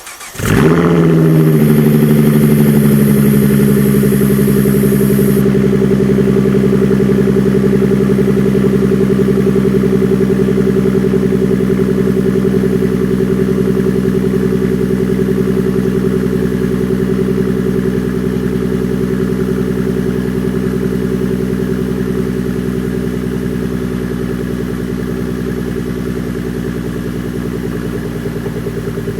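2014 Ford Mustang's 3.7-litre V6 through a Borla ATAK exhaust firing up on a cold start: it catches within the first second, flares, then settles into a steady fast cold idle that slowly grows a little quieter as it warms.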